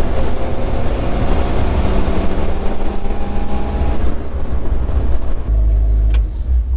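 Old pickup truck running on the move, engine drone under a loud rushing road and wind noise; about four seconds in the rushing fades and a deep low rumble is left.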